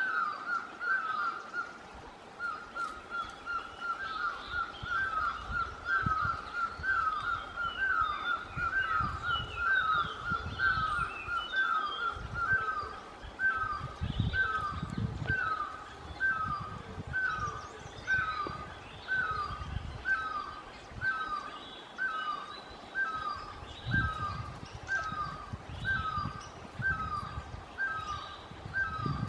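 A bird calling a short downward-hooked note over and over, very evenly, about once a second, with fainter high chirps of other small birds scattered in between.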